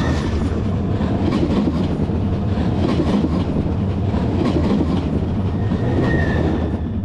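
SŽ class 510 Stadler FLIRT electric multiple unit passing directly over the microphone: a loud, steady rumble of the car bodies and bogies, with a run of wheel clicks over the rails.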